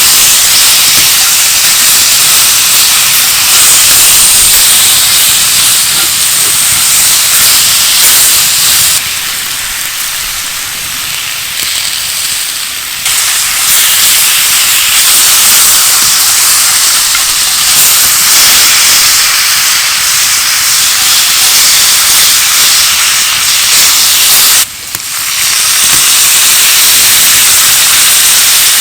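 Food sizzling hard in a hot pot over a campfire, a steady loud hiss. It turns quieter for a few seconds near the middle and has a brief break about three-quarters of the way through.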